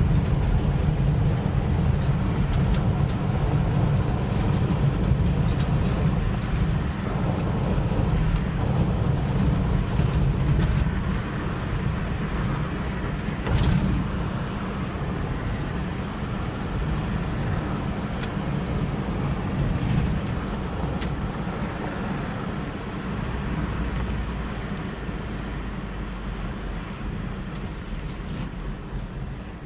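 A 1985 Toyota pickup driving: a steady low rumble of engine and road noise that grows gradually quieter over the last several seconds. A brief sharp sound stands out about 13 seconds in.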